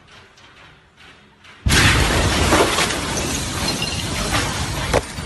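Blast of the Beirut port ammonium nitrate explosion: after a quiet start, a sudden loud boom hits a little under two seconds in and carries on as a wall of noise with glass shattering and a few sharp cracks near the end.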